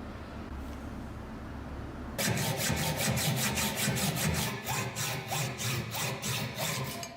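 Rapid rhythmic scraping strokes, about four or five a second, starting about two seconds in over a steady low hum.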